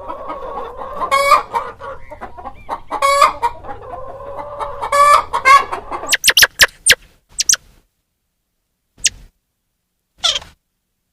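Chickens clucking, with a louder call about every two seconds over steady background clucking. After about six seconds this gives way to a scattering of short, sharp, high calls.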